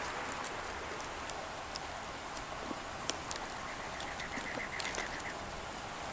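Steady outdoor hiss with a few sharp clicks from twigs and leaves being handled. Near the middle a bird gives a rapid series of about ten short chirps.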